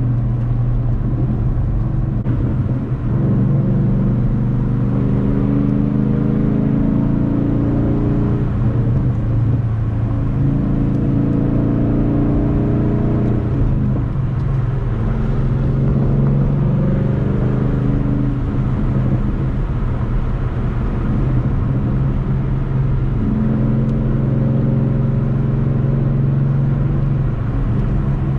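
Ford Mustang GT's 5.0-litre V8 engine under way. Its note climbs through the revs and drops back several times, over a steady low rumble.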